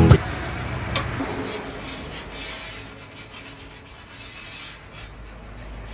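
Several slow, scratchy rubbing strokes, roughly a second apart, from hand work in the glass-cutting job.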